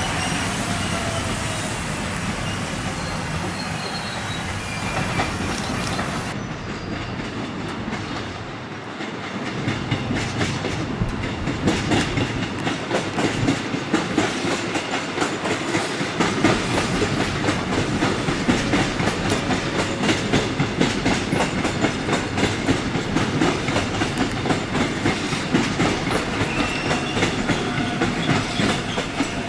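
Train passing through the station. A quieter rumble with faint wheel squeals comes first, then from about ten seconds in the wheels click and clatter in a quick, steady rhythm over the rail joints.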